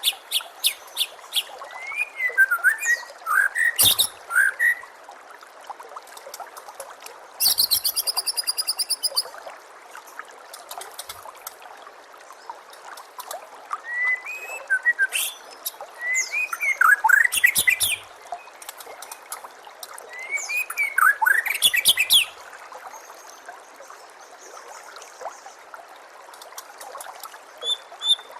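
White-rumped shama (murai batu) singing in separate phrases of quick rising and falling whistles, with a fast rattling trill a few seconds in, over a steady trickle of running water.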